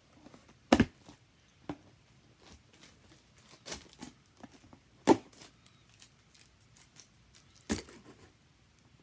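Cardboard box and packaging being handled and opened: a handful of sharp knocks and taps with light rustling between them.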